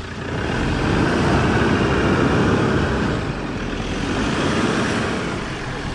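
A vehicle's engine running hard under load as it tries to drive out while stuck. It builds up about half a second in, holds steady, and eases slightly near the end.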